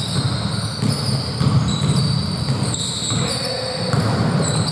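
Basketball game play on an indoor court: a dense run of low thuds from the ball bouncing and players' feet, with high-pitched shoe squeaks coming and going over it.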